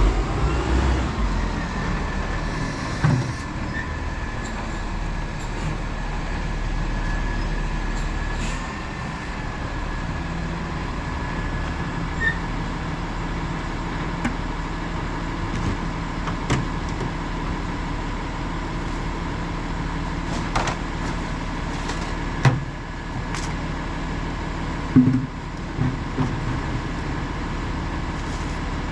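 Autocar ACX split rear-loader garbage truck running, with a steady whine over its engine hum and scattered knocks and bangs, a few seconds apart.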